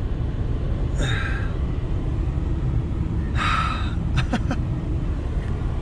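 Gusty wind buffeting the microphone as a loud, steady low rumble. There are short breathy bursts about a second in and again around three and a half seconds.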